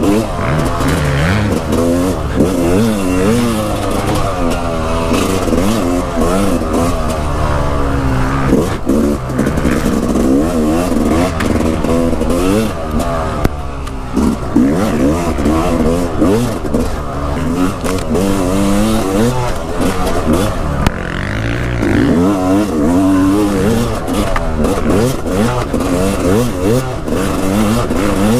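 Dirt bike engine revving up and down over and over, as the throttle is opened and closed and the gears change while riding.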